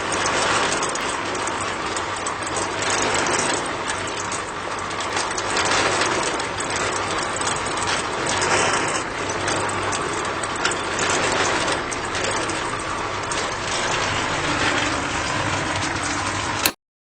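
A DIY mini tractor's small motor runs steadily with a mechanical rattle, then stops abruptly near the end.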